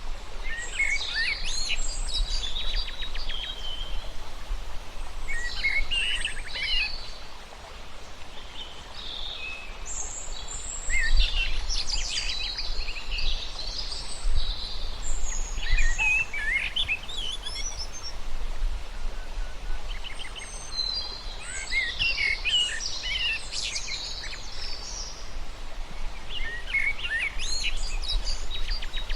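Songbirds singing in bursts of quick, high chirps and warbled phrases every few seconds, over a steady low rumble.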